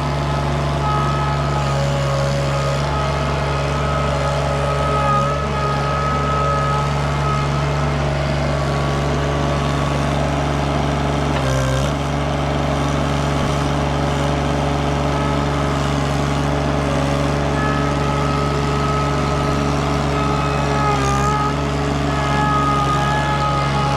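KRT ST900HD mini skid steer engine running steadily, with higher tones that come and go in places.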